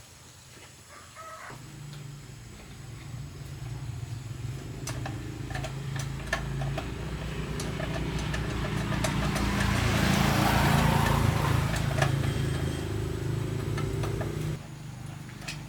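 Restored 1989 Hyosung motorcycle's engine starting up about a second and a half in and running, growing steadily louder to a peak and then dropping off suddenly near the end.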